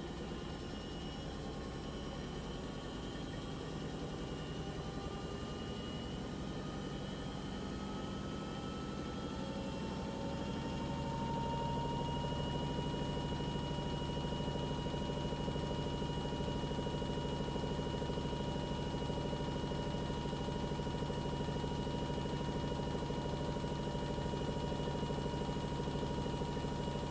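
Panasonic NA-VX9900 drum-type washing machine spinning up: its motor whine rises slowly in pitch for about ten seconds, then holds a steady whine over a low hum as the drum reaches speed, as in the spin cycle.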